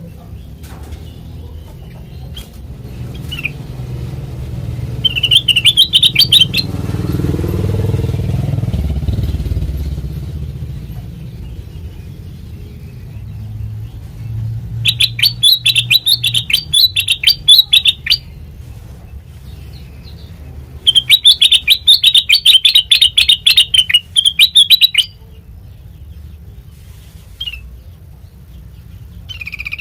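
Kutilang mas bulbul singing in three bursts of rapid, chattering notes, the longer ones lasting about three to four seconds. A low rumble swells and fades under the first burst.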